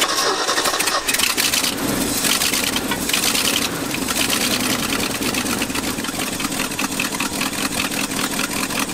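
A 1974 Ford F350's four-barrel 460 V8 running steadily, with its idle mixture screws backed out one and a half turns to test whether it is running too lean.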